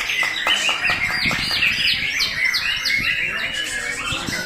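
White-rumped shama (murai batu) singing a fast, continuous string of varied chirps and whistles, several notes a second with no pause.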